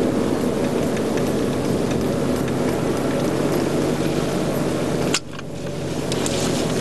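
Mercedes-AMG car's engine running with road noise, heard from inside the cabin, as the car creeps along and rolls to a stop. About five seconds in there is a click and the sound suddenly drops to a quieter level.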